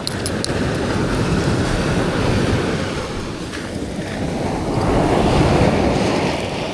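Sea waves washing in over rocks, surging twice, with wind buffeting the microphone.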